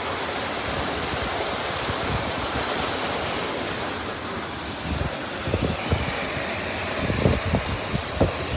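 Water gushing at full pressure from a sheared-off fire hydrant, a steady, even rushing spray. Uneven low rumbling bumps come in during the last few seconds.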